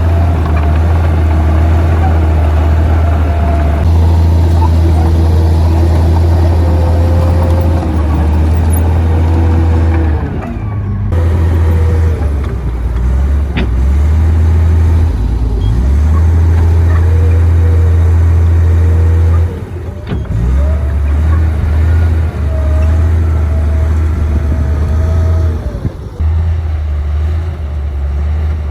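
Komatsu D58P crawler bulldozer's diesel engine running under load, its pitch rising and falling as it works, with brief dips in level about a third and two-thirds of the way through.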